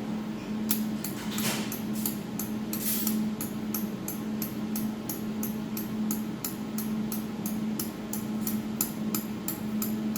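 Rapid, even clicking, about four clicks a second, from the adjustment knob of a 200 W jewelry laser welding machine being turned steadily to move the laser support back. Under the clicks runs the machine's steady hum.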